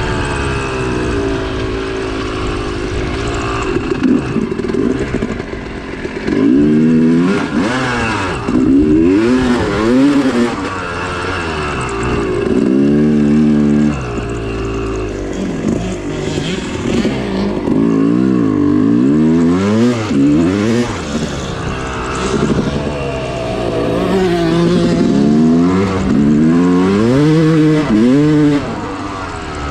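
Dirt bike engine being ridden, revving up and falling back again and again as the throttle is opened and closed.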